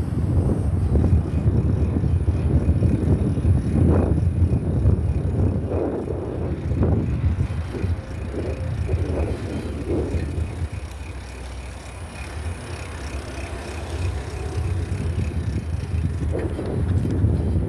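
Wind buffeting the microphone of a camera carried on a moving bicycle, a continuous low rumble with occasional short surges as the ride goes over bumps.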